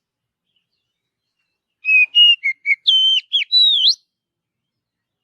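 Oriental magpie-robin (kacer) singing one short phrase of varied, clear whistled notes, several of them sliding up or down, starting about two seconds in and lasting about two seconds.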